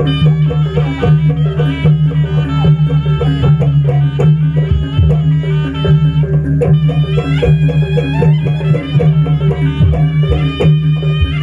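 Live jaranan buto ensemble music: a reedy wind melody with bending notes plays over drums, a steady low gong drone and a fast repeating pattern of struck metal tones.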